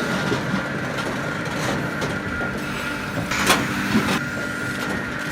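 A heavy machine running steadily with a constant whine over a low rumble, with a sharp knock about three and a half seconds in and a lighter one just after.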